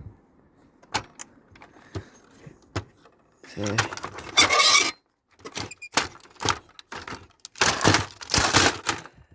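Metal parts of a video cassette player clinking and rattling as it is taken apart by hand: scattered sharp clicks, with two longer bouts of clattering and scraping about four and eight seconds in.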